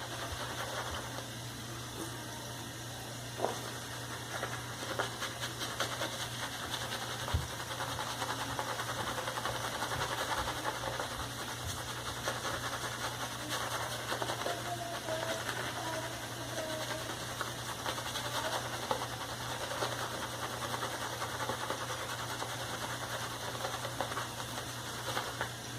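Synthetic shaving brush swirling and whipping thick shaving-soap lather, a steady wet crackling of quick strokes as the lather takes up the last of the added water.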